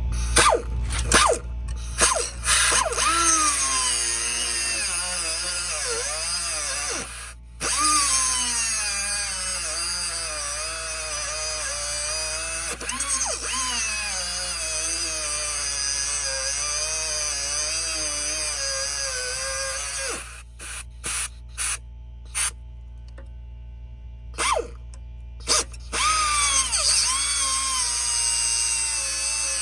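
Handheld electric power tool running in short trigger bursts, then in long runs whose whine drops in pitch and wavers as the tool comes under load against the work.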